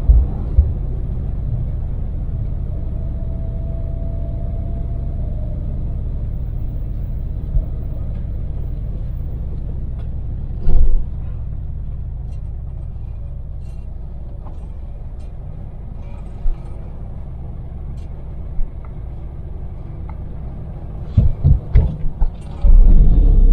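Daewoo Damas microvan's three-cylinder LPG engine and tyres running at steady cruise: a continuous low rumble. Several short low thumps break in, the strongest about eleven seconds in, and a run of them near the end where the rumble gets louder.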